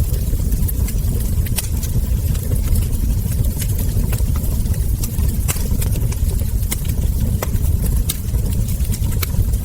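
Wood fire crackling, with frequent irregular sharp pops of the burning logs and embers over a steady low rumble.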